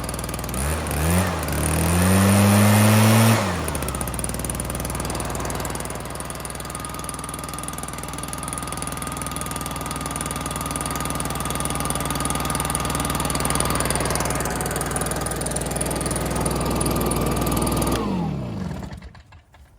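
Stihl BR420 backpack blower's two-stroke engine revving up about a second in and holding high for a couple of seconds, then dropping back to run steadily with a thin fan whine. Near the end it is shut off and winds down to a stop.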